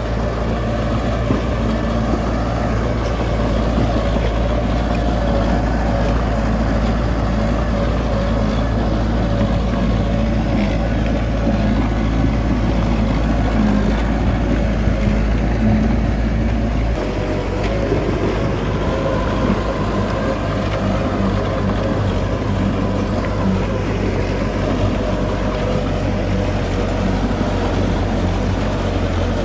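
Heavy diesel engine of earthmoving machinery running steadily, its sound shifting a bit over halfway through.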